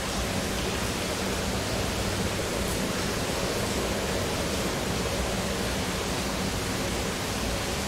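Heavy rain falling: a steady, even hiss and rush.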